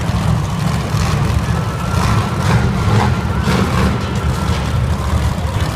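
Monster truck engine running loudly, a deep, steady rumble.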